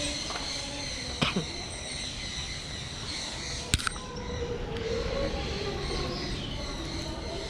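Walk-through aviary ambience: a steady high-pitched chirring over a low background hum, broken by two sharp clicks, about a second in and nearly four seconds in.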